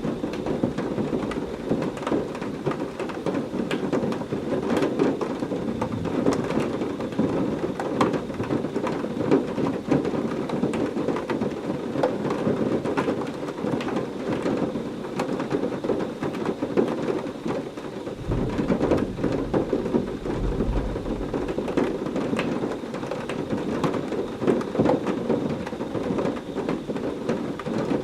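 Heavy rain falling steadily, with many individual drops ticking on a surface. A low rumble of thunder rolls in about two-thirds of the way through and lasts a few seconds.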